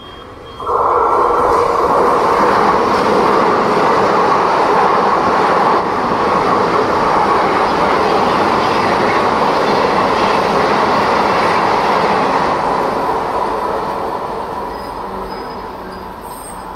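Mumbai suburban electric local train running past the platform at close range, its wheels and coaches making a loud, steady noise. The noise starts suddenly about a second in and fades away over the last few seconds as the train clears the station.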